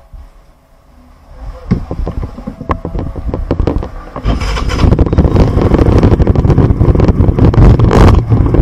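Scooter engine sputtering into life, its firing irregular at first, then getting faster and louder about four seconds in.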